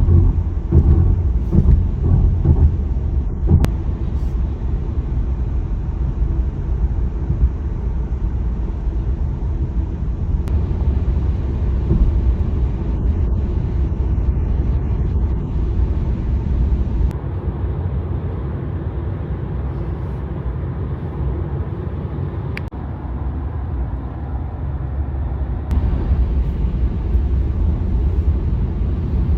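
Steady road and tyre rumble of a Tesla electric car cruising at highway speed, with no engine note.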